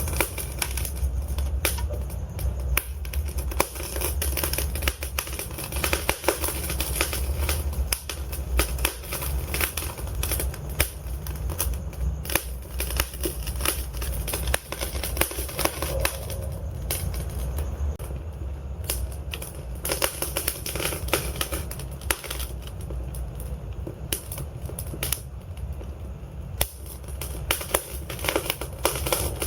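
Wood fire crackling and popping in a fireplace: dense, irregular sharp pops over a steady low rumble of the flames.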